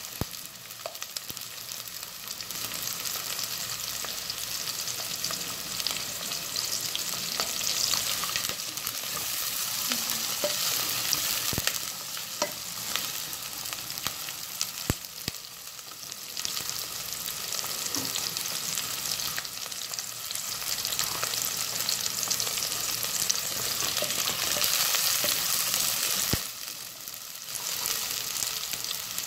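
Chopped onion and garlic sizzling in hot oil in a stainless steel pot as they are stirred, the hiss swelling and easing, with a few sharp clicks of the utensil against the pot.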